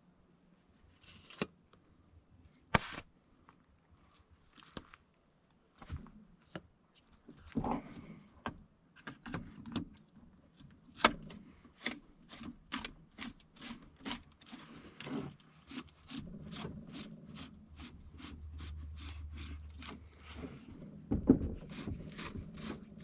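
Clicks, knocks and scrapes of a grease gun's metal parts being handled and screwed back together, with a steady low hum for a few seconds near the end and a sharp knock just after it.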